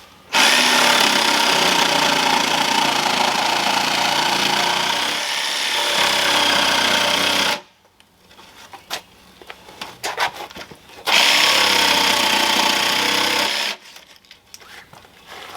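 Jigsaw cutting through thick yellow pine in two runs: about seven seconds, then a pause with light knocks, then about two and a half seconds more. The saw is trimming off the out-of-square edge left where the blade flexed in the thick wood.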